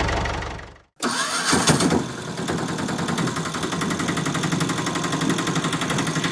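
An engine's running sound fades out and cuts off; about a second in an engine starts up, loudest just after starting, then runs on steadily with a fast, even pulse.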